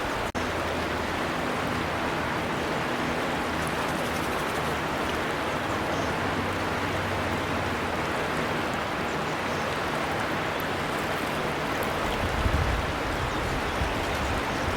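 River water flowing steadily, a constant rushing. The sound drops out for an instant just after the start.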